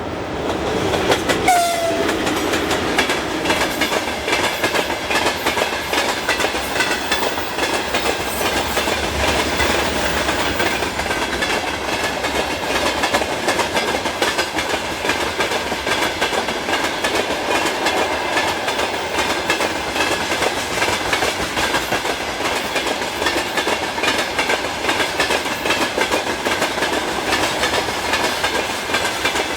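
A long electric train passing close by at speed, its wheels clattering over the rail joints in a steady rolling rhythm. It arrives loudly about a second in, with a short high falling tone near the start.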